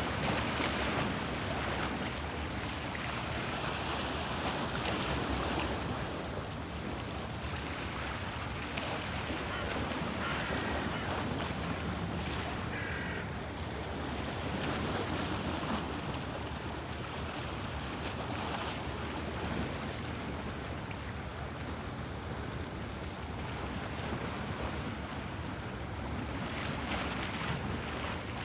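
Sea waves on the Bosphorus washing and lapping, a steady rush of water that swells and eases every few seconds, with some wind on the microphone.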